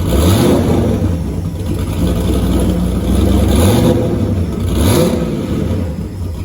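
Turbocharged 4.8-litre LS V8 running, its revs rising briefly a few times as the throttle is blipped.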